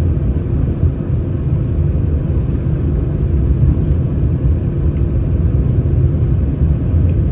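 Steady low rumble inside the cabin of an Airbus A319 with its CFM56 engines running, with a faint steady hum above it.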